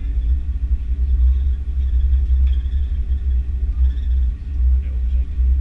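Deep, steady rumble inside the cabin of an Airbus A330-300 on the move on the ground, its energy almost all in the bass and wavering in strength without a break.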